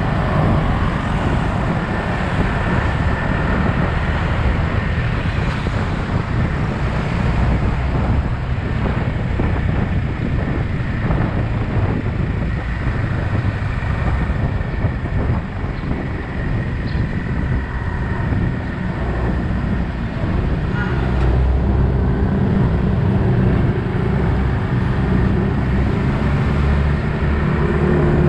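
Yamaha XSR 155's single-cylinder engine running under way, mixed with wind and road noise from riding in traffic. The engine's low note grows stronger in the last third.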